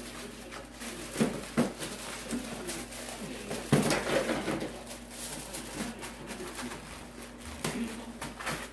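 Handling noise from meat being wrapped for roasting: a couple of sharp knocks, then a longer burst of rustling about four seconds in, over a low steady hum.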